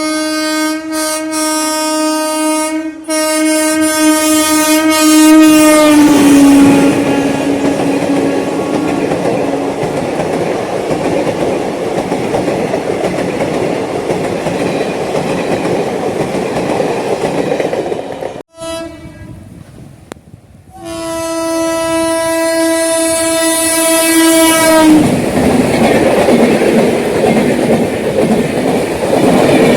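Passing Indian Railways trains. A locomotive horn sounds a long blast that drops slightly in pitch about six seconds in as it goes by, then fades under the steady rumble and clickety-clack of the coaches. After a brief break, the horn sounds again for about four seconds, and more coaches rumble past.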